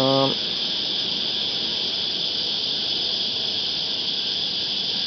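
A steady, unbroken high-pitched chorus of cicadas buzzing in the creek-side trees, with a brief low hum of a man's voice at the very start.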